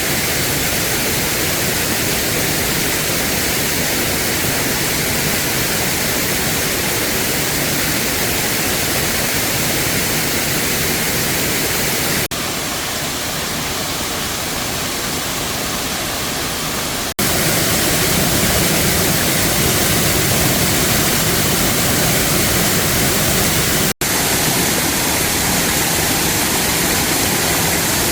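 Waterfall rushing: a loud, steady hiss of falling water, which shifts abruptly in loudness and tone three times, at about twelve, seventeen and twenty-four seconds in.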